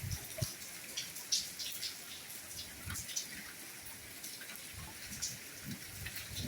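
Soft rainfall: a steady hiss of rain with many separate drops and drips ticking irregularly, and a few soft low thuds of heavier drops.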